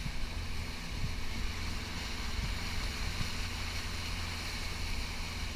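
Motorboat engine running steadily at cruising speed, with wind noise on the microphone and water rushing past the hull.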